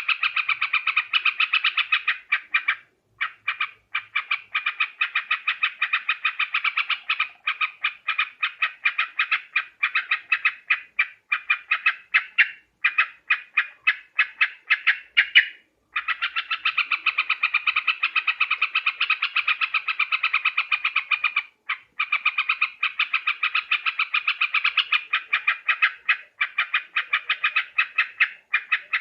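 Yellow-vented bulbul (trucuk) calling in a rapid run of short chattering notes, about four or five a second, with brief breaks about three seconds in, around the middle and about two-thirds of the way through; a call recording used as a lure for trapping bulbuls.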